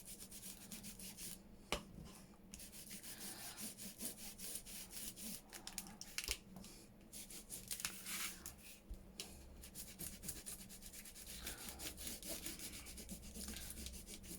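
Faint rubbing and scratching of paper being worked by hand, in many short irregular strokes, with one sharp tap about two seconds in.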